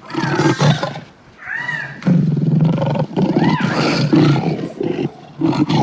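Lion roars, several rough roars in a row with short breaks between them.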